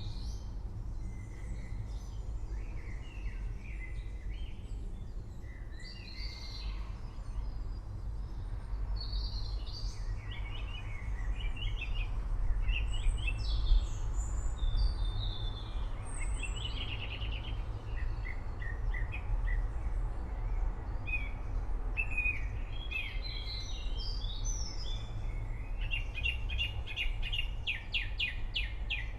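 Several songbirds chirping and singing in short overlapping calls, with a fast trill of rapidly repeated notes near the end, over a steady low rumble.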